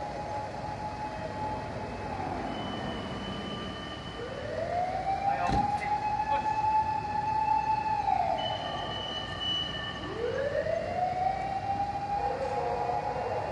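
Fire engine siren sounding in slow cycles: each one winds up in pitch, holds, then falls away, repeating about every six seconds. There is a single sharp click about five and a half seconds in.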